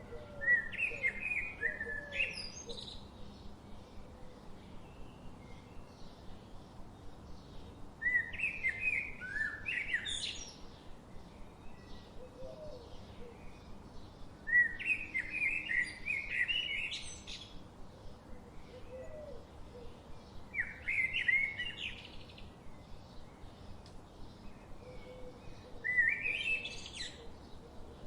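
A songbird singing the same short, elaborate phrase five times, about every six seconds, each phrase climbing to a high flourish at its end. Fainter low calls sound between the phrases.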